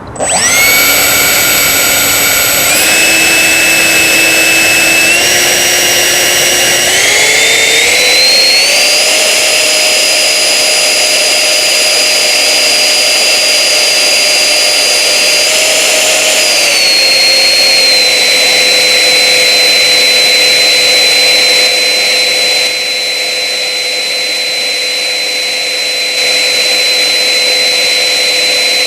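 Jetman Tornado 75 jet turbine spooling up under throttle: a loud whine that starts abruptly and climbs in pitch in several steps over about nine seconds. It holds at high speed for several seconds, then drops back about seventeen seconds in to a steady, lower-pitched whine.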